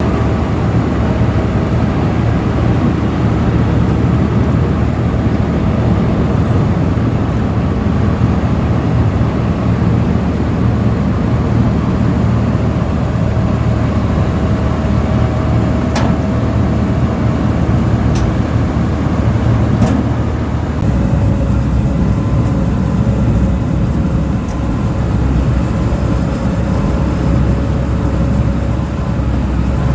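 Road planer running as it mills off the asphalt surface: a loud, steady, heavy low rumble of diesel engine and cutting drum. A few sharp clicks come a little past the middle, and the sound shifts slightly soon after.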